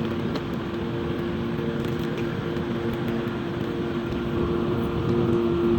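Steady hum of a motor running, a few even tones over a low rumble.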